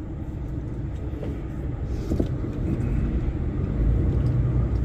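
Heavy truck's diesel engine running low and steady, heard from inside the cab while crawling in stop-and-go traffic, growing a little louder about halfway through.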